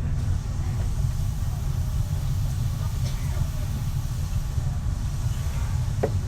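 Kintetsu 3220 series train heard from inside the car: a steady low rumble of running on the rails, with a brief higher tone near the end.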